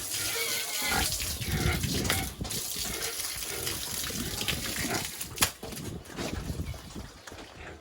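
Pigs grunting and squealing in their pen, with one sharp knock about five seconds in.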